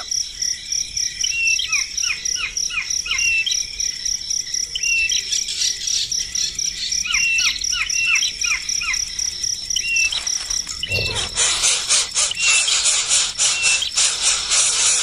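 Small birds chirping: short repeated calls and runs of quick falling notes, over a steady high-pitched insect trill. About eleven seconds in, a louder, scratchy noise sets in and carries on.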